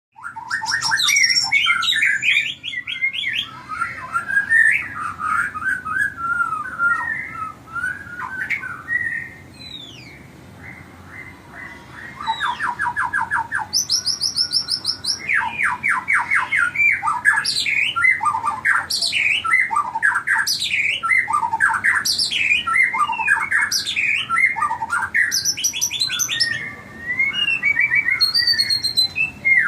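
White-rumped shamas calling loudly and almost without pause: rapid rattling trills, quick repeated note series and whistled slurs. These are the calls of males fighting. The calling drops away for a couple of seconds about ten seconds in.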